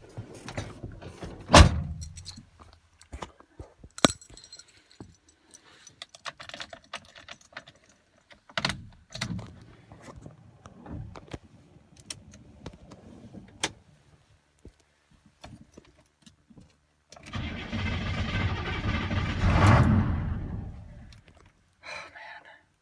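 Keys jangling and small clicks, then the K10's 6.2-litre diesel V8 cranking over on its starter for about four seconds on a cold start after two days sitting.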